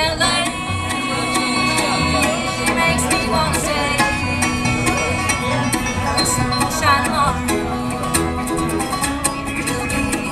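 Bluegrass band playing, with banjo, fiddle, mandolin, guitar and bass together over a steady beat.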